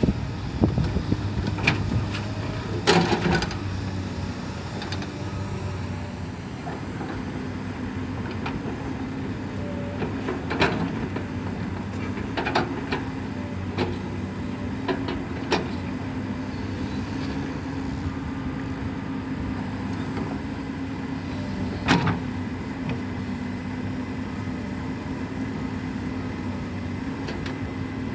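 Excavator's diesel engine running steadily, with sharp clanks and knocks from time to time as it digs and dumps.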